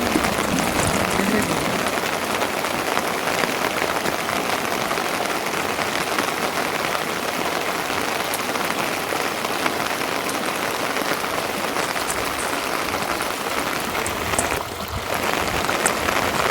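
Steady rain falling, an even hiss of many drops with no rhythm, dipping briefly about two seconds before the end.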